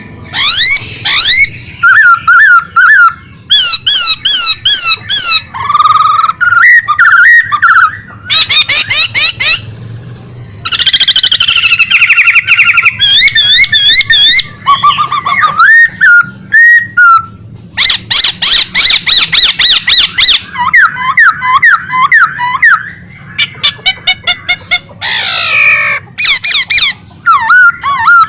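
A bird singing loudly and almost without pause, a varied run of whistled notes that swoop up and down, fast repeated trills and harsh chattering phrases.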